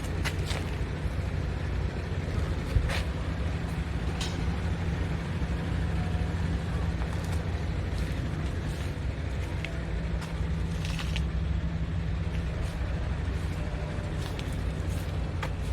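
Scania S500 tractor unit's 13-litre straight-six diesel idling steadily, with scattered clicks and knocks and one sharp knock about three seconds in.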